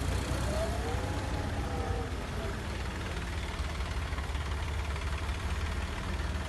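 Heavy vehicle engines, such as tractors and work machines, running steadily with a low rumble. A fainter tone rises and then falls in the first couple of seconds.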